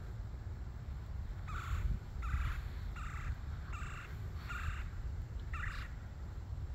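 A bird calling six times in a row, short calls a little under a second apart, over a low steady rumble.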